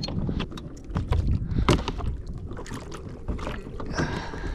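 Irregular knocks, clicks and water sounds of handling on a kayak over a low rumble, as a small redfish is brought in alongside.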